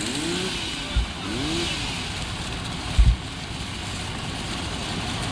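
An engine revving up and down in short sweeps over a steady hiss, with low thuds about one second and three seconds in.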